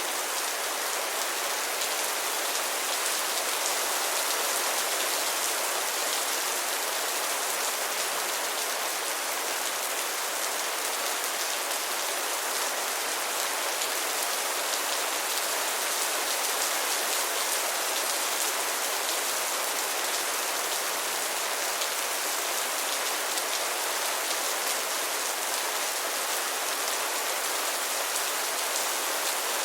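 Heavy rain falling steadily, a dense even hiss with many fine drop patters.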